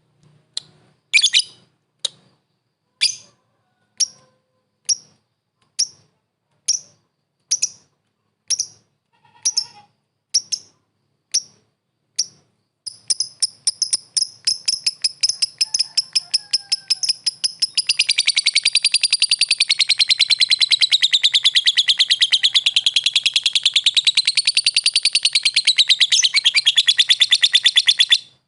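Lovebird calling: sharp single chirps about once a second, then a long, fast chattering trill (the 'ngekek') that starts a little before halfway, wavers up and down in pitch and stops just before the end.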